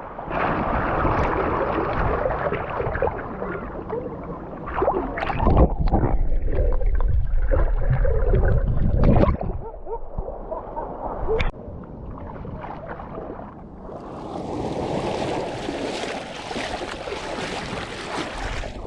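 Seawater splashing and gurgling around an action camera dunked at the surface, dipping in and out of the water, with a heavy rumble through the middle and a few sharp knocks.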